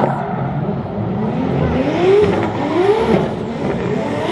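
A drift car's engine revving hard in about three rising sweeps, each falling back as the throttle comes off, while the car slides sideways through the course.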